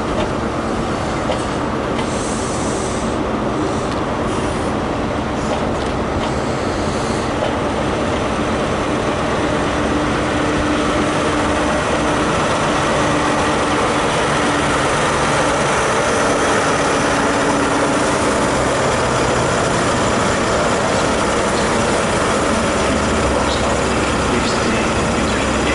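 ScotRail High Speed Train, Class 43 diesel power cars with Mk3 coaches, rolling slowly past on arrival: a steady sound of wheels running on the rails together with the power car's diesel engine. It gets a little louder partway through as the power car goes by.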